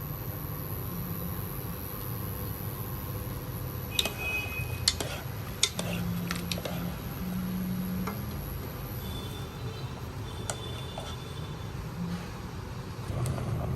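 Several sharp clinks of dishes and utensils, clustered a few seconds in with a few more near the end, over a steady low rumble.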